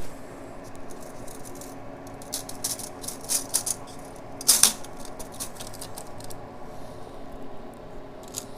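Scattered light metal clicks and rattles of hand tools and engine parts being handled, with one louder clack about four and a half seconds in.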